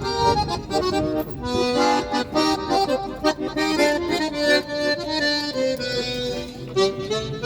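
An accordion playing a tune in quick, short notes over held chords.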